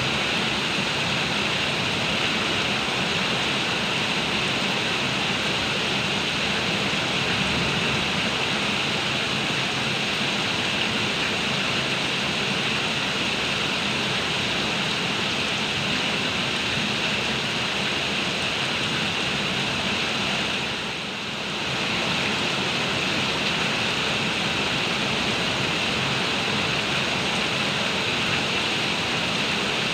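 Heavy rain pouring down in a steady, dense hiss. The level dips briefly about two-thirds of the way through, then comes back.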